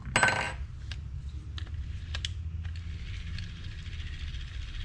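Rebuilt Daiwa Catalina 6500H spinning reel being worked by hand after a full rebuild, with new main shaft, oscillating gear and bearings: a short burst of rapid clicking right at the start, then light ticks and a faint, even whir as the mechanism turns smoothly.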